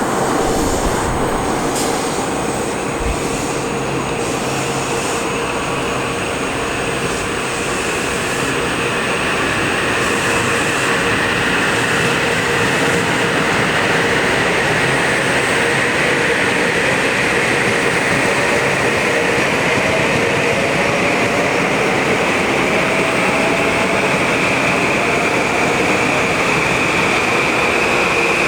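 Passenger train running past on the rails, a loud steady rumble of wheels with a faint whine that slowly rises in pitch.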